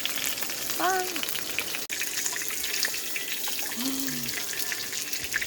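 Meat sizzling and crackling steadily in a hot pan on the camp stove. Two brief vocal sounds cut in, a rising-then-falling one about a second in and a lower one around four seconds.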